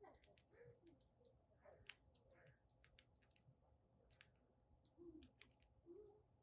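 Wood fire in a fire pit crackling faintly, with scattered sharp pops and ticks of burning firewood.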